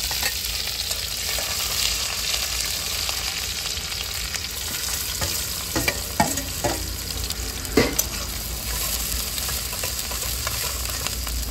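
Chopped onion and green chilli frying in hot oil in a steel kadhai, a steady sizzle, with a few sharp metal clinks of the steel plate and spatula against the pan between about six and eight seconds in.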